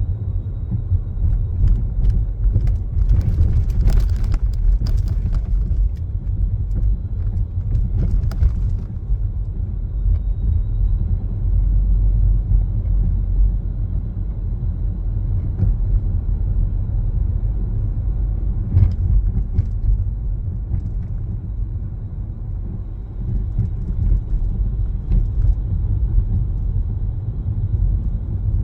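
Car driving on city roads, heard from inside the cabin: a steady low road and tyre rumble, with a patch of light clicks and knocks a few seconds in.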